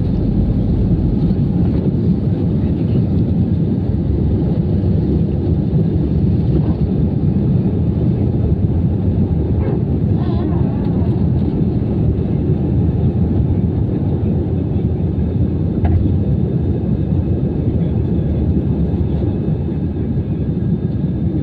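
Steady low rumble of an Airbus A320-214 heard from inside the passenger cabin: the noise of its CFM56 engines and the airflow, even throughout.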